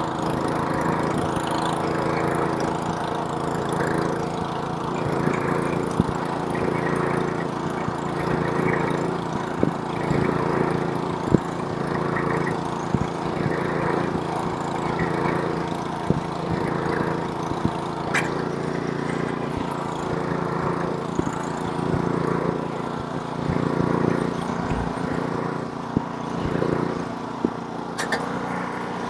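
Small-engine snowblower running steadily under load while clearing snow, with occasional short knocks and clicks over the engine sound.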